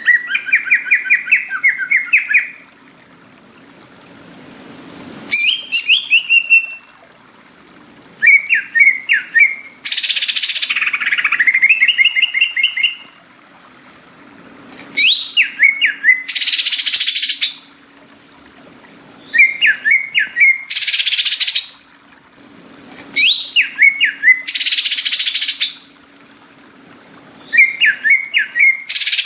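Greater green leafbird (cucak ijo) singing in bursts of rapid, repeated whistled notes, a phrase every few seconds. Most phrases are followed by about a second of harsh hissing.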